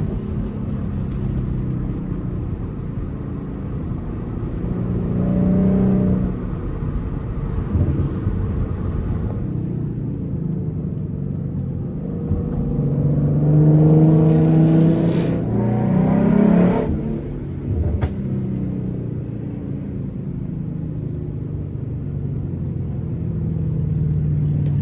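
2014 Ford Mustang's 3.7 L V6 with a Roush axle-back exhaust and BBK shorty headers, running under way, with the pitch climbing as it accelerates about five seconds in and again for several seconds past the midpoint.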